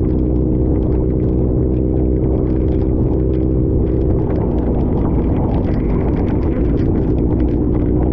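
Honda CB1000 motorcycle engine running steadily at cruising speed, with a light ticking of heavy rain on the bike-mounted camera.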